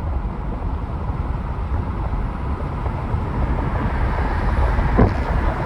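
Steady low rumble of a moving vehicle's road and engine noise, building a little, with a single sharp knock about five seconds in.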